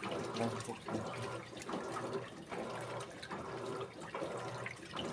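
Electrolux Essential Care 14 kg top-load washing machine agitating a load in water: the motor drives the agitator back and forth in regular strokes about every 0.8 s, each stroke with a motor whine and water sloshing.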